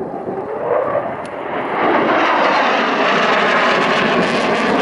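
F-35 Lightning II fighter's Pratt & Whitney F135 jet engine, a roar swelling over the first two seconds as the aircraft comes back under power, then holding loud and steady.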